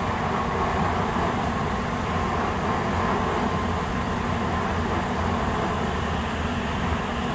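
N700-series Tokaido Shinkansen train running past on the station tracks: a steady rumbling rush of wheels and air, with a faint steady whine above it.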